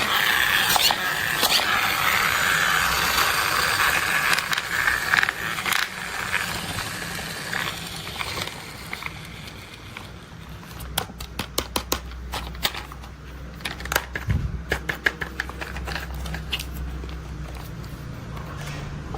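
Toy construction vehicles being handled in play. For the first several seconds there is a continuous scraping rush, then runs of sharp, rapid clicks and rattles from the toys' moving parts.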